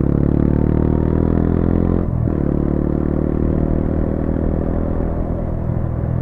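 Brixton Cromwell 125's single-cylinder four-stroke engine running steadily through an Arrow exhaust with its dB-killer fitted, with a brief change in its note about two seconds in.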